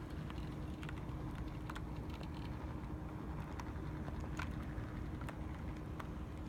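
HO-scale brass model of a Pennsylvania Railroad R-1 electric locomotive running on track: a steady low hum from its motor and gears, with irregular light clicks of the wheels on the rails.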